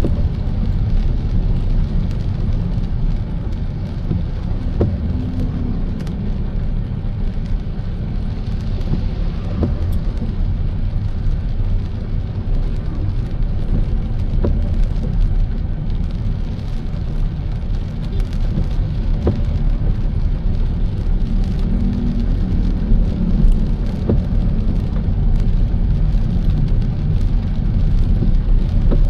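Car driving in the rain: a steady low road and engine rumble, with scattered sharp ticks of raindrops striking the car.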